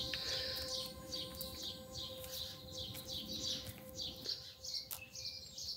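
A bird chirping over and over, short high chirps that fall in pitch, about three a second.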